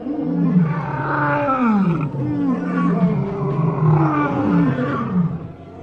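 Animals calling, a dense run of overlapping calls that each rise and then fall in pitch, easing off briefly near the end.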